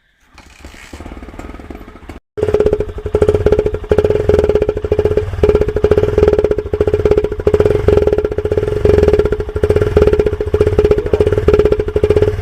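Honda Shine motorcycle's single-cylinder four-stroke engine running with an empty beer can fitted to change its exhaust note: a rapid, loud, rattling putter with a steady drone. It is fainter for about two seconds, then after a brief cut it comes in loud.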